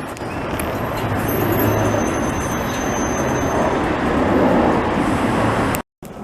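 Heavy highway traffic running steadily below the overpass, a dense rushing noise. It cuts off abruptly near the end.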